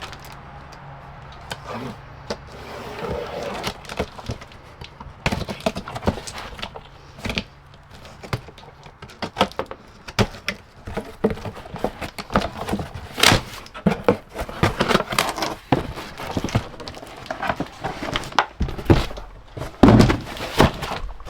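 Hand work on a pickup truck's door while its weather stripping is replaced: a run of irregular clicks, taps and thunks as parts and tools are handled against the door.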